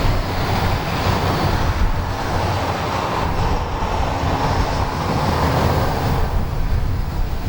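Turboprop aircraft engine running, a steady rushing noise that swells a little in the middle, with wind buffeting the microphone.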